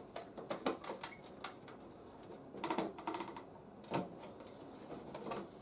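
Irregular clicks, taps and knocks of hard plastic parts being handled, with a louder cluster near the middle and a single louder knock about four seconds in.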